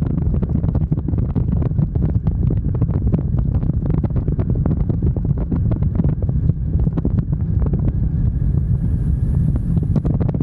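Wind buffeting the microphone of a moving motorcycle: a steady, loud, deep rumble with constant gusty crackle, the bike's running noise buried underneath.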